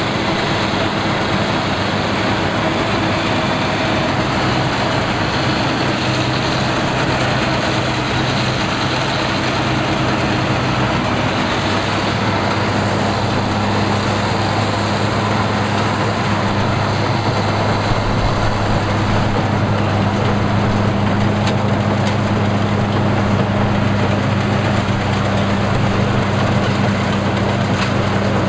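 A rice combine harvester's engine running steadily under the clatter of its machinery, with a constant low hum that grows a little stronger about halfway through.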